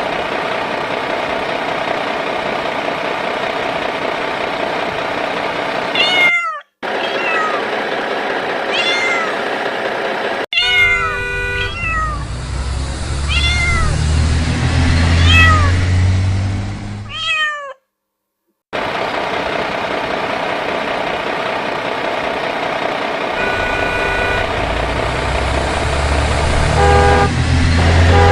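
Cat meowing repeatedly in short arched calls, over a steady electric hum, with brief horn tones and a low motor rumble from battery-powered toy vehicles.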